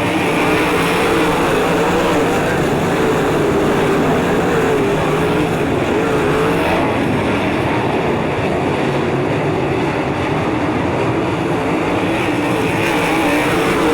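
Several 360 sprint cars' V8 engines running hard in a pack around a dirt oval, their pitches rising and falling as the cars go through the turns and down the straights.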